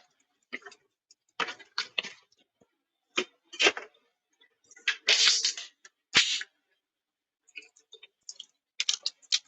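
Rustling and handling noises in a small room: a series of short crinkling, scraping bursts, the longest about five seconds in, then a run of quick clicks near the end.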